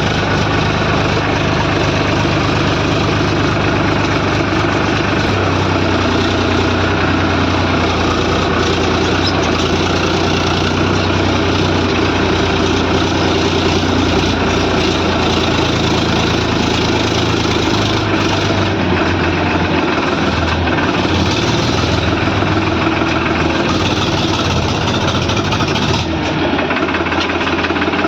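Heavy diesel machinery engine running loud and steady, its pitch shifting a few times as the load changes.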